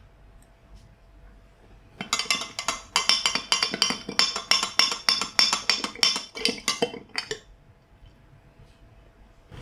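A kitchen utensil striking a dish over and over, about five quick clinks a second for about five seconds, as in fast mixing or chopping while preparing the prawn dimsum.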